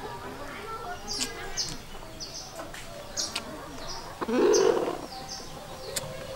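Small birds chirping, short high falling notes repeating a couple of times a second, with one louder rough sound lasting about half a second a little over four seconds in.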